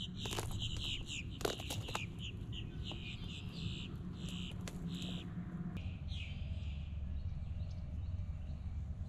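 A bird calling in a quick run of repeated high chirps that stops about six seconds in, over a steady low wind rumble. A few sharp clicks in the first two seconds, fitting footsteps on a fallen log.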